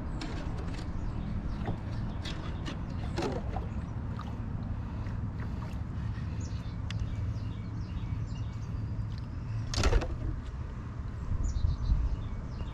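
Birds chirping here and there over a steady low rumble of wind on the microphone, with one sharp knock about ten seconds in.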